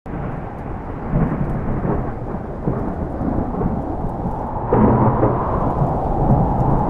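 Thunderstorm: rain and rumbling thunder, with a sudden louder crack of thunder about two-thirds of the way through.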